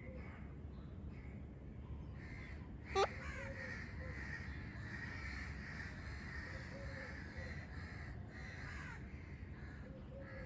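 Parrot squawking and chattering in harsh, crow-like calls, with one short, sharp, loud call about three seconds in.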